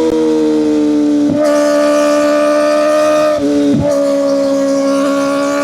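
Kawasaki Ninja ZX-4RR's 399 cc inline-four engine revving high through its exhaust, a loud, steady, high-pitched scream. The pitch sags slowly and dips sharply twice, about a second and a half in and again near four seconds.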